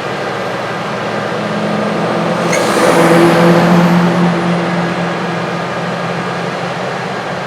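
Diesel engine of a heavy farm machine running steadily over a constant background of machinery. It grows louder and passes close by about three seconds in, then fades back.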